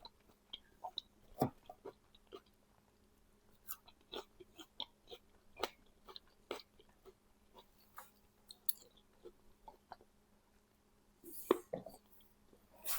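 A person eating fried pike: quiet chewing with scattered small clicks and crunches over a faint steady hum, with a louder clatter near the end.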